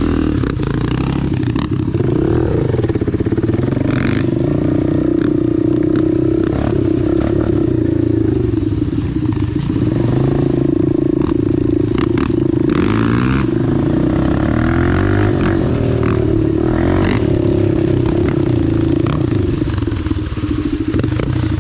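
Dirt bike engine running steadily under load, its pitch rising and falling as the throttle is worked, with a few short sharp knocks scattered through.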